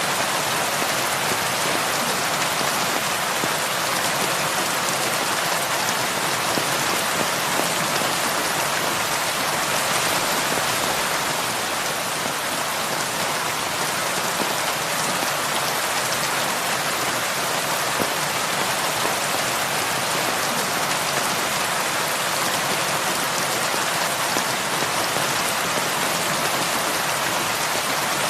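Heavy rain falling steadily on a roof, a dense, even hiss with no change in strength.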